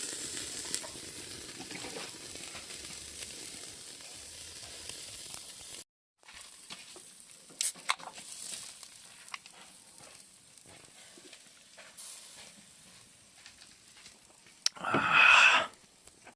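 Sizzling and crackling from the fire grill in use. The sound cuts out suddenly about six seconds in, and quieter scattered crackles follow. A brief loud noise comes near the end.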